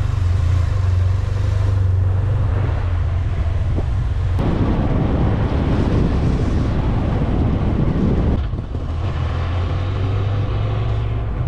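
Motorcycle engine running with a steady low drone. From about four seconds in to about eight seconds a loud rushing noise covers it, then the drone carries on.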